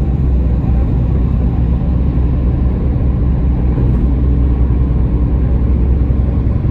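Steady low rumble of a car heard from inside the cabin as it drives slowly.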